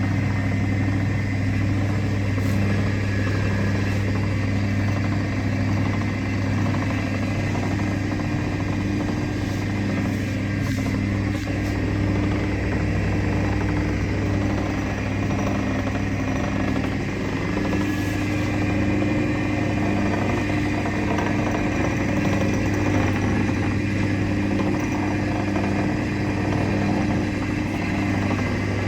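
Blade grinding machine running steadily, its motor giving a constant low hum with a few steady tones above it.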